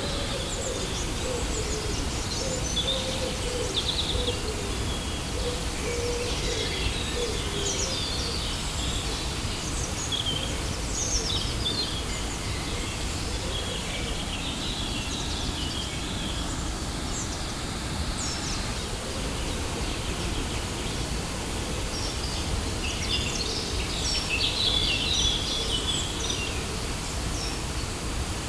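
Waterfall rushing steadily, with small birds chirping and twittering over it in spells, busiest during the first dozen seconds and again about three-quarters of the way through.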